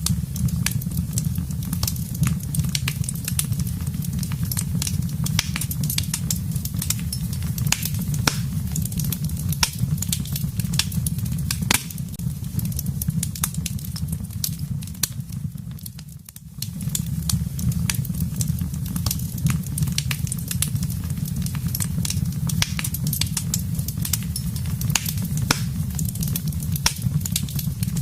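Wood fire burning in a fireplace: many sharp crackles and pops over a steady low rumble of the flames. The whole sound dips briefly about halfway through, then carries on as before.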